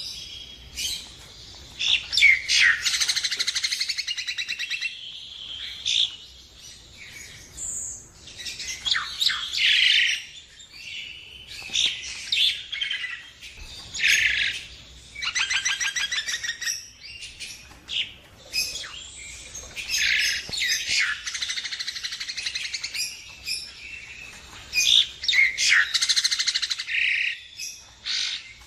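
Nias hill myna (Jalak Nias) singing: loud bouts of whistles and rapid chattering trills, broken by short pauses.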